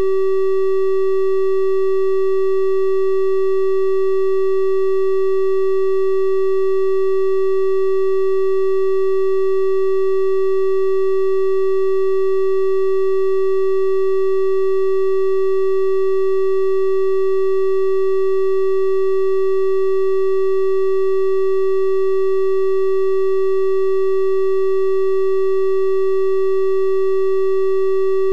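Synthesized 384 Hz triangle-wave tone, held steady and unchanging at one pitch, with faint higher overtones giving it a slightly brighter edge than a pure sine.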